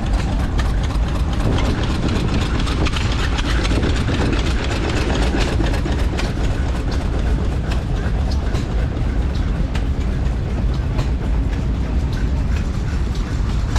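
Vintage stationary engine running steadily: a low, continuous throb with many quick ticks and clicks over it.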